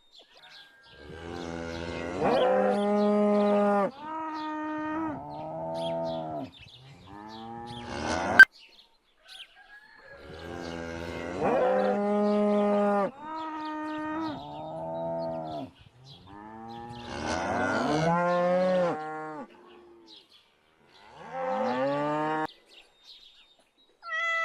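Cattle mooing: a series of drawn-out calls, each one to two seconds long and varying in pitch, with short pauses between them. The same run of calls seems to come twice, and a sharp click falls about eight seconds in.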